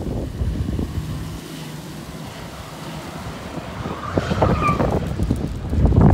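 Strong gusty wind buffeting the microphone: a low, rough rumble that eases in the middle, then a harder gust comes in near the end.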